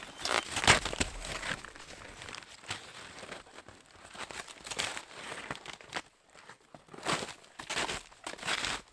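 Footsteps crunching in snow, a run of uneven steps.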